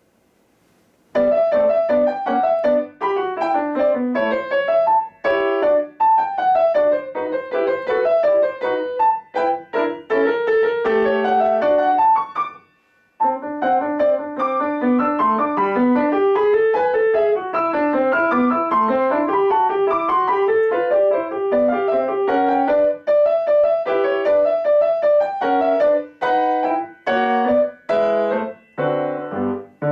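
A piano playing a classical piece. The notes begin about a second in and break off briefly about halfway through.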